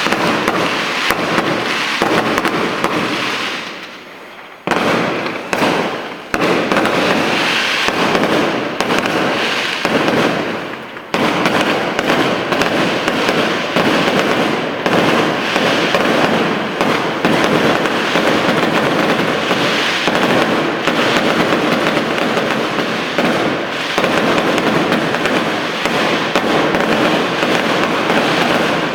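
Fireworks going off in a dense, continuous barrage of bangs and crackling. There is a brief lull about four seconds in, then it picks up suddenly again.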